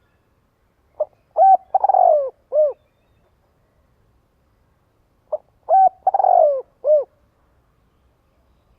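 Spotted dove cooing: two song phrases about four seconds apart, each a short note, a longer rough coo and a final short coo.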